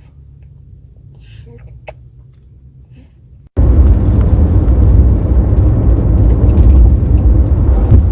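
A few faint short sounds over quiet, then an abrupt cut about three and a half seconds in to loud, steady road rumble of a car driving.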